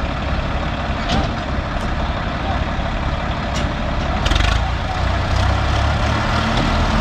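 Tractor diesel engines running hard under load as a Mahindra 585 DI and a Swaraj 855 FE pull against each other in a tug-of-war. The engine sound grows heavier and louder about four seconds in as they labour.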